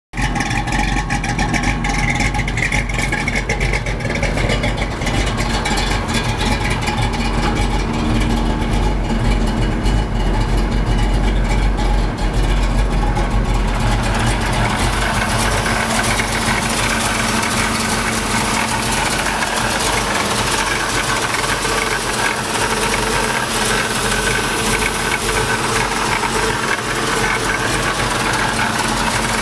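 1965 Ford Mustang's Paxton-supercharged engine, set up to blow through the carburettor, idling steadily. It is heard first at the exhaust, with most of the sound low down, then from about halfway on at the open engine bay, where it sounds brighter and more mechanical.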